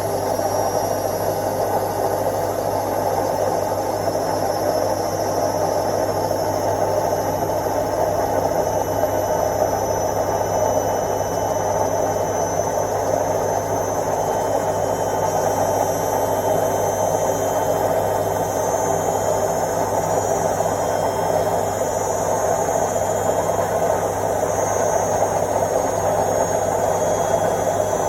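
Indesit IWC71252 washing machine running a quick wash programme: a steady, unbroken motor whir and hum with no pauses or changes.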